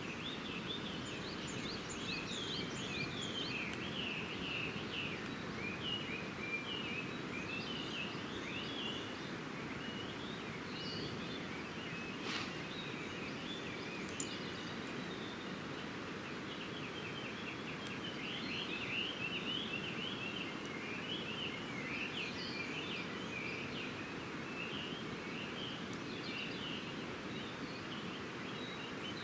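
Many small birds chirping and twittering in a dawn chorus over a steady low rushing noise, with two sharp pops from the campfire about twelve and fourteen seconds in.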